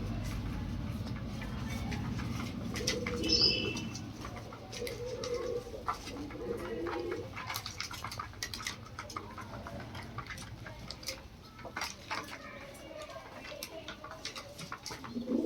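Lahore pigeons cooing in low, repeated phrases, mostly in the first half, with scattered light taps and clicks and one short high chirp a few seconds in.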